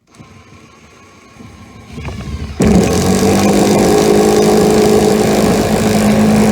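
Hart 20 V cordless impact driver driving a lag bolt into a wooden 4x4. The motor first spins the bolt in quietly, then about two and a half seconds in the impact mechanism kicks in as the bolt takes load. It goes loud and steady until the trigger is released and it stops suddenly. The bolt is driven home without trouble.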